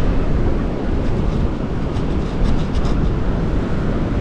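Strong wind buffeting the microphone, a loud steady low rumble, with a few faint ticks around the middle.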